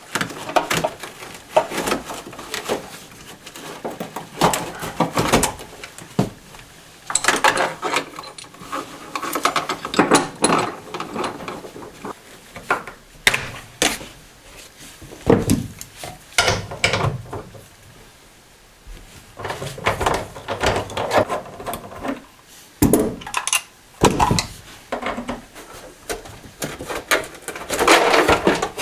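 Hand tools clinking, knocking and scraping on metal fittings while a bolt in a car's floor is undone, with rustling between the irregular knocks.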